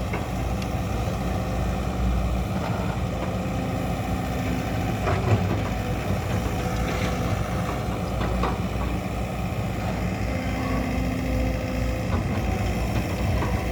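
Heavy diesel engine running steadily at idle, with a few short knocks scattered through the middle.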